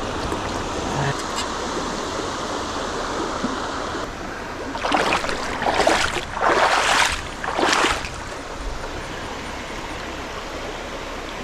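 Creek water running steadily, with a burst of loud splashing about five to eight seconds in as a hooked fish thrashes at the surface while being landed.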